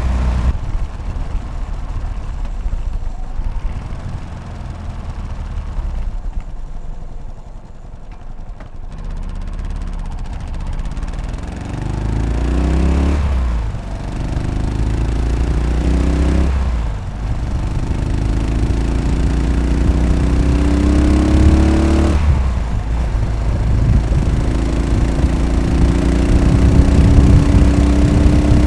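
Yamaha SR500's air-cooled single-cylinder four-stroke engine heard from the rider's seat: it falls off on a closed throttle for the first several seconds, then pulls away and revs up through the gears, with three upshifts about halfway, then two-thirds and three-quarters of the way through, and keeps climbing near the end.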